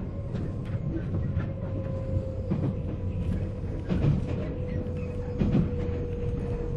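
485-series electric multiple unit motor car running, heard from inside the car: a steady motor and gear whine that sinks slowly in pitch as the train slows, over a rumble, with wheel knocks over rail joints about once every second or two.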